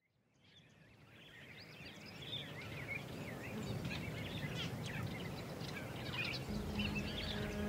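Several birds chirping and singing over a steady outdoor hiss, fading in from silence over the first couple of seconds. A low steady tone comes in near the end.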